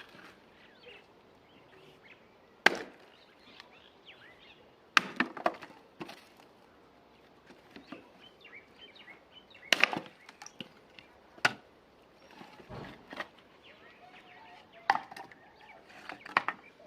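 Sharp knocks or snaps at irregular intervals, a few seconds apart and sometimes two in quick succession, with faint bird chirps between them.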